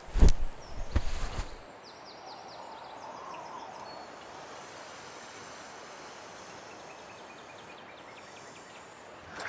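Two loud, noisy sound effects in the first second and a half. After them, a steady outdoor nature ambience with birds chirping in quick trills, twice.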